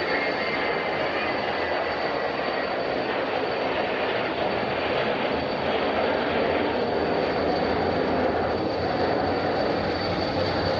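Jet airliner engines running: a steady roar with a high, constant whine on top. A second whine sinks slightly in pitch over the first couple of seconds.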